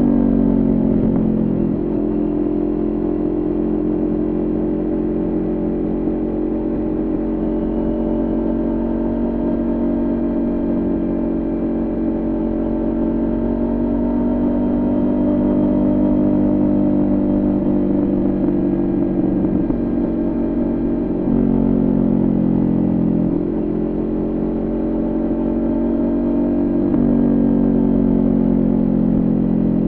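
Kawasaki Ninja 400 parallel-twin engine through its Coffman exhaust, heard onboard while riding. The revs fall at the start, then the bike cruises at fairly steady revs that slowly rise and fall. The engine note changes suddenly about 21 seconds in and again near the end, like gear changes.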